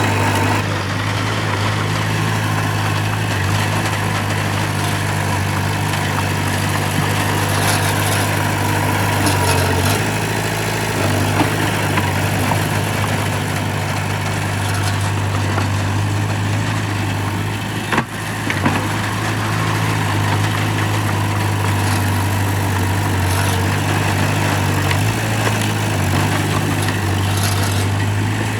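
Heavy earthmoving machine's diesel engine running steadily with a low, even hum, with a few short knocks and clanks, the sharpest about eighteen seconds in.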